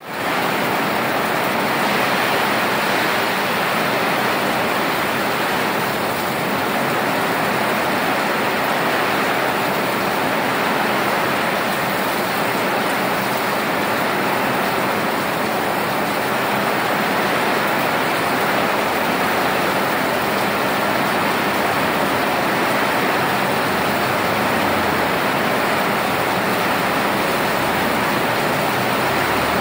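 Heavy rain pouring down in a steady, loud, unbroken rush.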